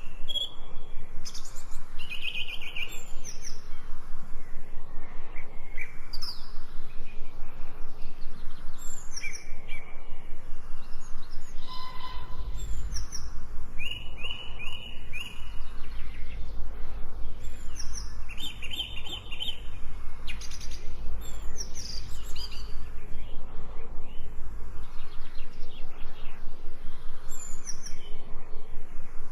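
Several songbirds chirping and singing, with short calls and quick trills overlapping. A low rumble runs under them through the middle part.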